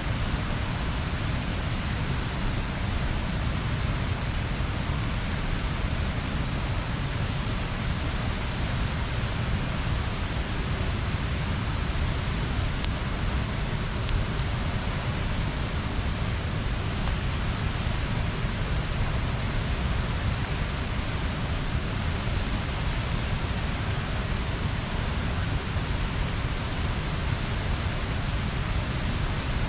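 Bonfire burning with a steady rushing hiss and a heavy low rumble, and only a faint pop or two about halfway through.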